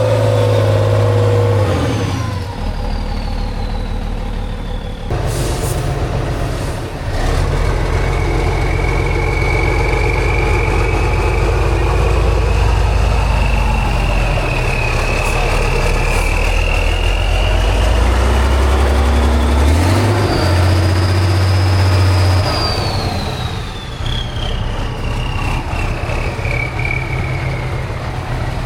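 Heavy off-road trial truck's diesel engine running hard under load, its pitch shifting as it works, with a high whine that slowly rises and then another that falls away near the end. Brief sharp noises come about five and seven seconds in.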